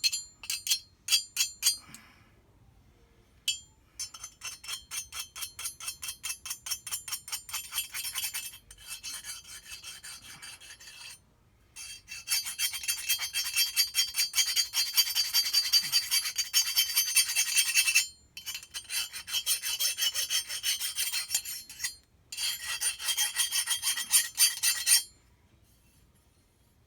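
Hand file rasping back and forth over the debris-damaged vane edges of a jet-ski impeller, quick even strokes at a few per second in runs with short pauses between, stopping near the end.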